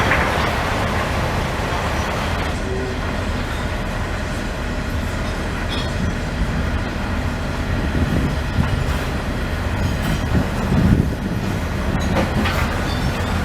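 Slow-moving ballast train rolling past, a steady low rumble from its wheels and wagons with occasional light clanks.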